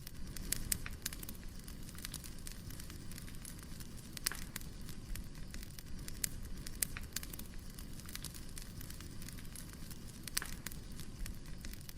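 Wood fire crackling: irregular sharp pops and snaps over a low steady rumble, with a couple of louder pops about four seconds in and near the end.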